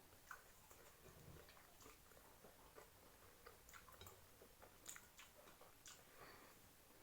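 Faint chewing of fried chicken, with scattered soft mouth clicks every second or so.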